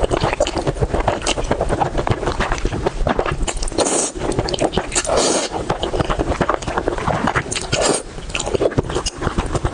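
Close-miked eating: chewing and biting, a dense, continuous run of short wet clicks and smacks.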